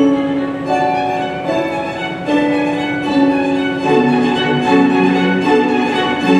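Symphony orchestra playing, the violins carrying a melody in long held notes over lower strings.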